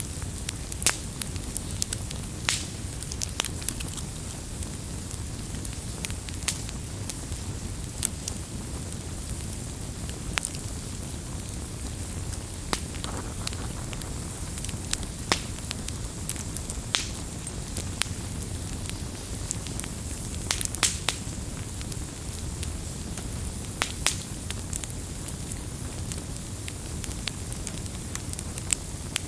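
Firewood burning: a steady low rumble of flame with frequent sharp, irregular crackles and pops from the burning wood.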